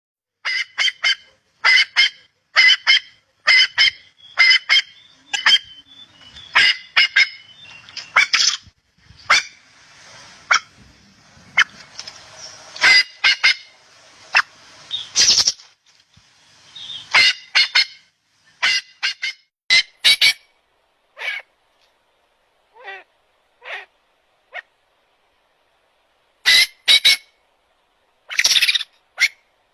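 Bird calling over and over in short, sharp calls, often in quick pairs about a second apart, thinning out in the second half with a few wavering, falling calls.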